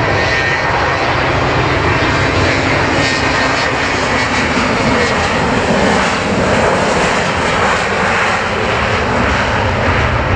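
McDonnell Douglas MD-82 jet airliner departing, its two rear-mounted Pratt & Whitney JT8D turbofans running at high power: a loud, steady rush of engine noise.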